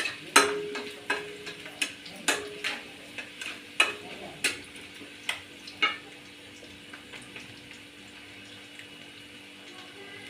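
A spatula stirring onions and masala frying in oil in a kadai, over a faint sizzle. It knocks on the pan about twice a second, some strokes leaving a short ring, and the strokes thin out after about six seconds.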